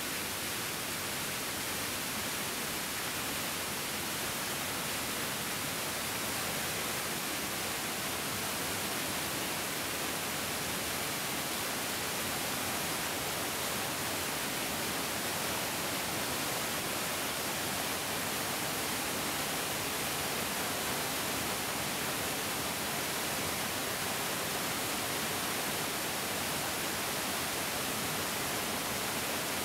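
A fairly large mountain stream rushing and flowing over rocks, a steady, even hiss-like roar of water.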